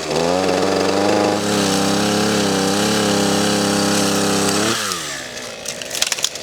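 Two-stroke chainsaw engine, a long-stored saw unused for three or four years, running at high revs, then dropping back towards idle about five seconds in. A few sharp clicks near the end.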